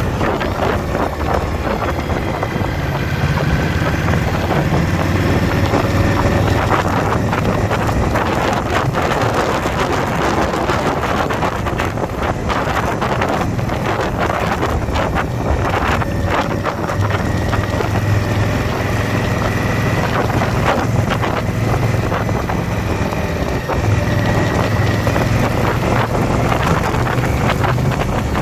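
Indian motorcycle's V-twin engine running steadily on the road, its pitch shifting a little with the throttle, under heavy wind noise on the microphone.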